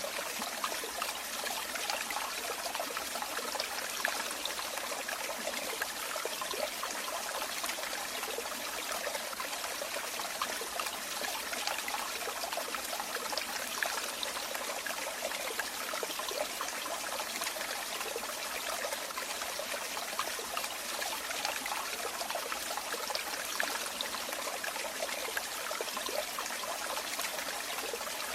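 Running water trickling and splashing steadily, a bright, crackling flow with no pauses or changes.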